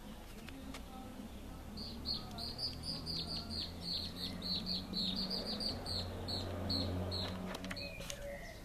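A bird singing a long series of short, quickly repeated high chirps, each dropping slightly in pitch, about three or four a second; it starts about two seconds in and stops near the end.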